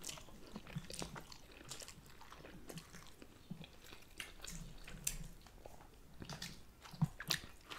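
Close-miked chewing and soft mouth sounds of people eating sushi and ramen, with scattered small clicks.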